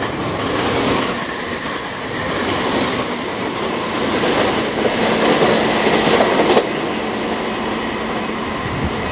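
JR Kyushu 885 series 'Sonic' electric express train passing close by at speed: wheel-on-rail noise builds, then drops off sharply about six and a half seconds in and continues as a steadier train running sound.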